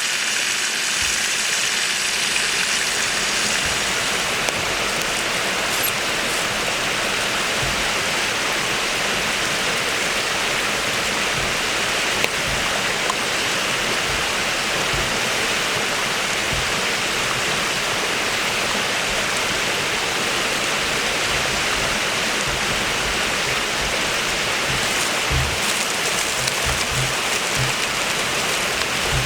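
Steady sizzling of food frying in hot fat.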